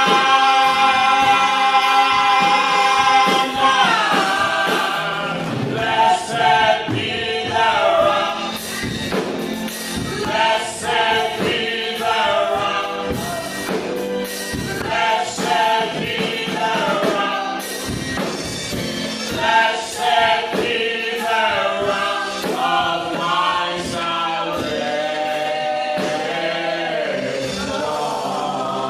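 Church praise and worship team singing a gospel song, voices together as a choir, holding one long chord for the first few seconds and then moving through sung phrases.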